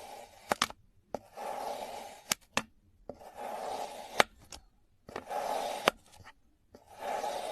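Four repeated scraping strokes, each about a second long and coming about every two seconds, each ending in one or two sharp clicks.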